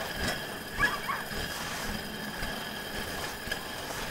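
Team of sled dogs running in harness, with two short yips about a second in, over a steady hiss.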